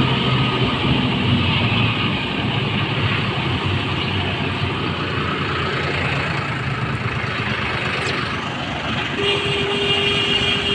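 Tractor diesel engine running steadily, with a steady higher-pitched tone joining near the end.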